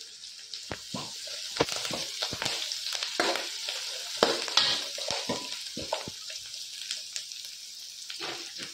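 Sliced onions, curry leaves and mustard seeds sizzling in hot oil in a kadai, with a spatula stirring them and scraping and knocking irregularly against the pan.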